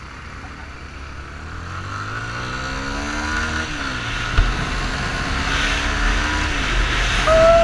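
Yamaha Fazer 250's single-cylinder engine accelerating, its pitch climbing and then dropping at a gear change about three and a half seconds in and again near the end. Wind noise on the microphone builds as speed rises.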